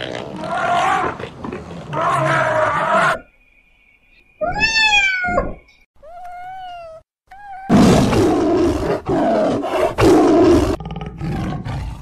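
Elephant calls for about three seconds, then a domestic cat meowing a few times, each meow rising and falling in pitch. Then, from about eight seconds in, a tiger roaring in long, loud, rough calls.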